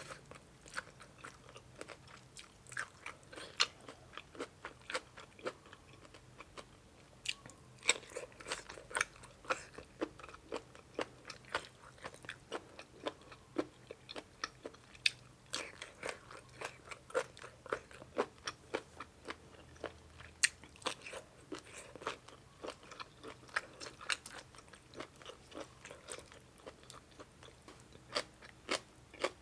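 Close-miked chewing and biting of crunchy food from a spicy Thai seafood papaya salad, with squid tentacles and fresh vegetables: many sharp, irregular crunches a second, with short pauses.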